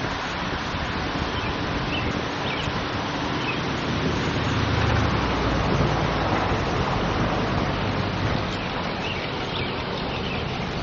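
Steady outdoor noise with a low engine hum that swells about halfway through, like a passing vehicle, and a few short, faint bird chirps.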